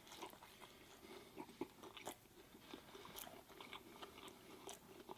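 Faint chewing: a person biting into and eating a jerk chicken Philly sandwich, with small irregular mouth clicks.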